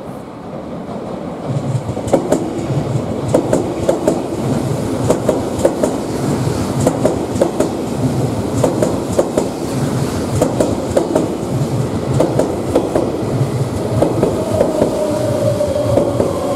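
Odakyu Line electric commuter train running close past, its wheels clattering over rail joints in a run of sharp clicks over a steady rumble. Near the end a whine from its motors falls in pitch.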